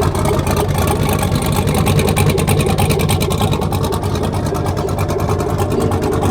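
Truck engine running hard at high revs, a fast, even firing pulse held fairly steady.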